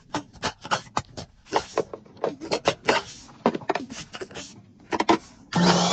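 A rapid, irregular run of sharp clicks and knocks, several a second. Near the end it gives way to a loud, steady hissing noise.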